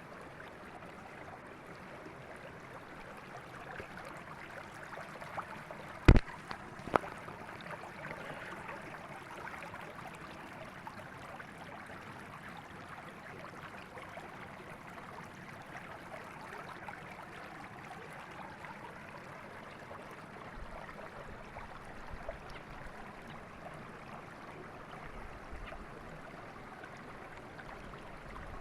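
Mountain river water flowing and rushing steadily over rocks. Two sharp clicks sound about six and seven seconds in.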